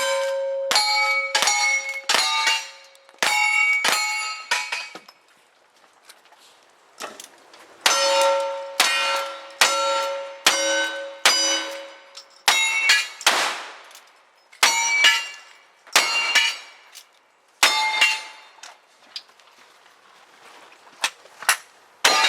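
A string of gunshots at steel targets, each hit followed by the ringing clang of the struck steel plate. The shots come in quick groups, with a pause of about two seconds near the first third.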